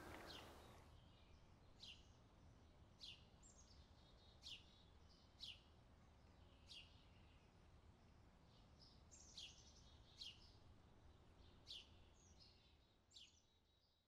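A small bird calling faintly and repeatedly: short, high chirps that fall in pitch, about one a second, over a low background rumble. The sound fades out near the end.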